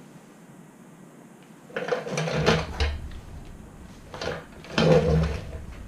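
Handling noise as motorcycle parts and wiring are worked by hand: two loud clusters of rattling, knocking and scraping, the first about two seconds in and the second near the end.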